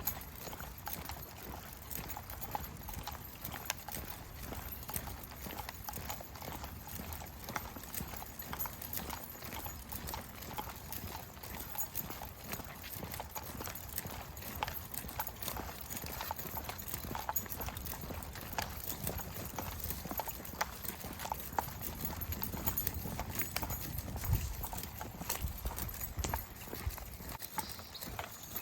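Footsteps of a walker and a pack of dogs on a trail: a steady, uneven run of small clicks and crunches. A low rumble swells in the last several seconds.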